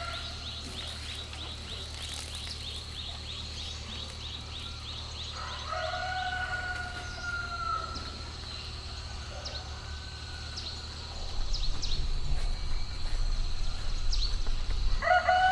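Rooster crowing twice: one long drawn-out crow about six seconds in, and another starting near the end. A fast high ticking sounds in the first few seconds, and a low rumble grows louder in the last few seconds.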